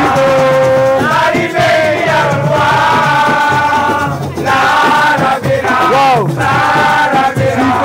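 A crowd of young people singing a chant together in phrases of long held notes, with short breaks between the phrases.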